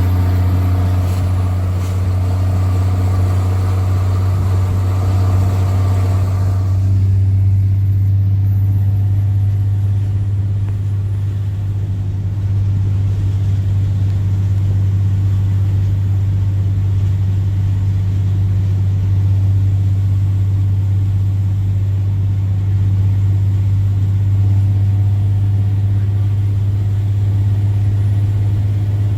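Straight-piped Cummins C8.3 inline-six turbo diesel in a school bus, its exhaust note loud and throaty while pulling for about the first seven seconds, then easing off abruptly to a steady lower drone.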